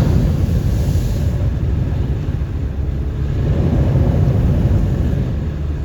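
A car driving, with a steady low engine and road rumble and a hiss that fades about a second in.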